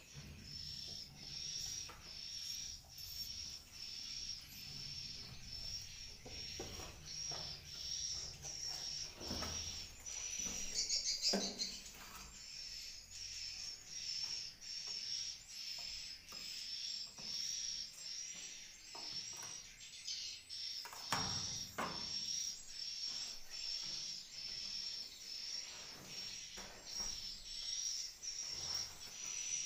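Swiftlet calls: a high, short chirp repeating evenly about three times every two seconds, with a few knocks and scrapes around ten seconds in and again near twenty-one seconds.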